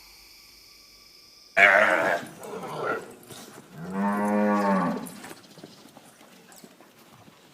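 Cow mooing: a loud rough call about a second and a half in, then one long, pitched moo that rises and falls.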